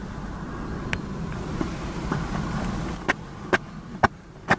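Motorbike engine running steadily, then a run of sharp clicks, about two a second, over the last second and a half.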